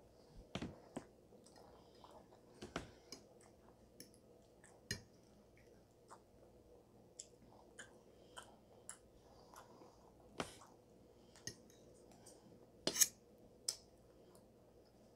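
Faint, close-miked chewing and mouth sounds of a person eating salad, with scattered sharp clicks and smacks, the loudest near the end.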